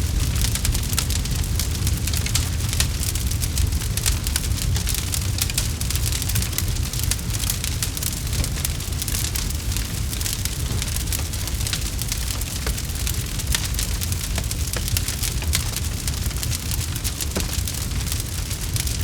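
Campfire burning: dense, irregular wood crackles and pops over a steady low rumble of the flames.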